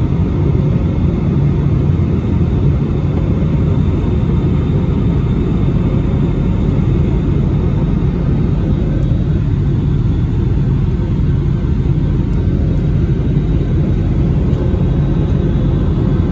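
Steady cabin noise inside an Airbus A320neo in flight: a constant low rumble of the engines and airflow, heard from a window seat, with no changes.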